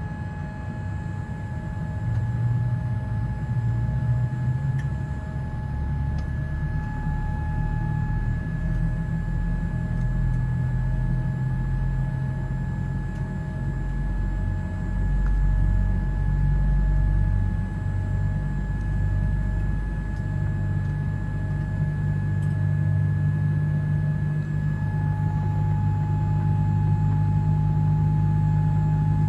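Boeing 787-10 heard from inside the cabin during pushback and engine start: a steady high whine from the aircraft's systems over a low rumble, with a fainter tone pulsing about once a second. The rumble swells and grows heavier in the last few seconds.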